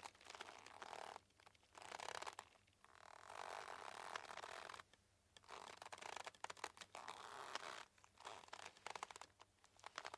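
Boat ropes creaking under strain: a series of drawn-out, crackling creaks, each a second or two long, with short pauses between them.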